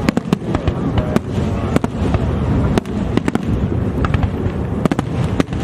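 Aerial fireworks going off: many sharp cracks and bangs in quick succession over a continuous low rumble of bursting shells.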